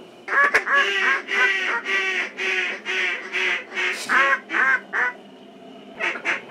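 A duck call blown close by in a series of loud, evenly spaced mallard-style quacks, about two to three a second, calling to a flock of ducks; it pauses for about a second near the end and starts a new series.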